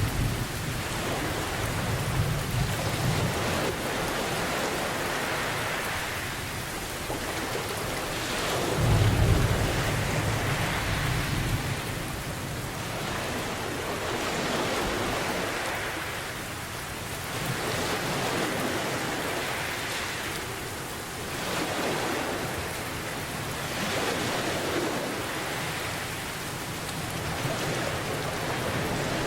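Steady heavy rain, with rolling thunder rumbling low near the start and again about nine seconds in. In the second half, ocean waves swell and wash in every few seconds.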